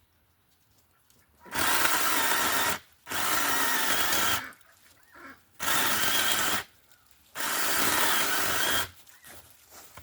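Battery-powered mini chainsaw running in four bursts of about a second or more each, cutting branches, with short quiet gaps between them.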